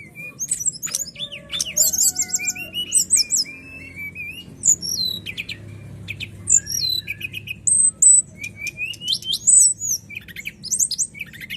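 Brown-chested jungle flycatcher (sikatan rimba dada coklat) singing a fast, varied song of high whistled notes, slurred glides and short trills, over a low steady hum.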